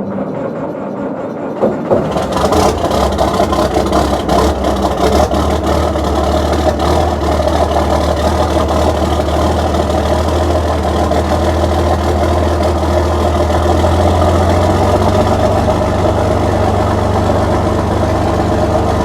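International Harvester 1066 tractor engine with a straight-pipe exhaust, cold started after sitting for a month in freezing weather. It turns over briefly, catches about two seconds in, then runs steadily, its idle rising slightly about fourteen seconds in.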